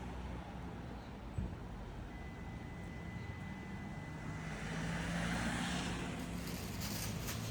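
A vehicle engine running with a steady low rumble; a faint high whine holds for a couple of seconds in the middle, and the noise swells slightly near the end.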